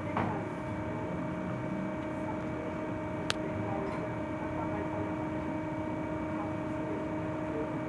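Inside a Scania 6x2 trolleybus: a steady electrical hum from its drive equipment over a low rumble. One sharp click comes about three seconds in.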